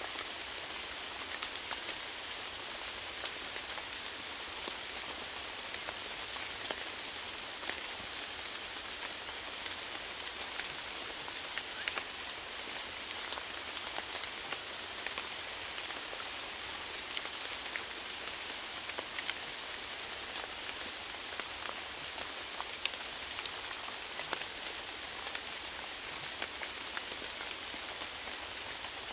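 Steady rainfall, an even hiss with many individual drops pattering and ticking on a surface.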